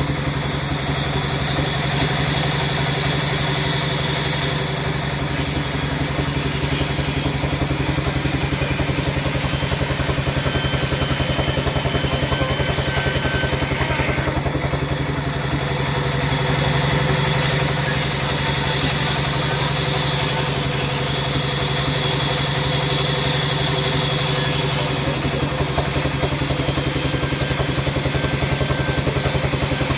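Sawmill machinery running steadily with a constant engine-like hum and a fast, even pulsing, and some change in the higher hiss a little past the middle.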